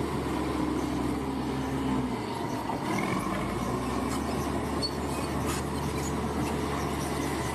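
Heavy earthmoving machinery running steadily, its low engine note dipping briefly about two seconds in.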